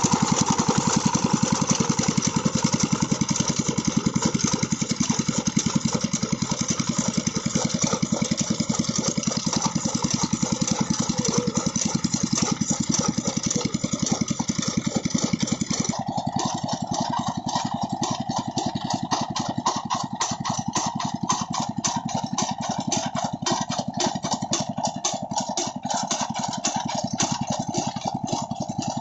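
Old Petter-type stationary diesel engine running steadily, its rapid firing beat driving a chaff cutter. About halfway through the sound changes abruptly, the hiss above dropping away and a middle tone coming forward.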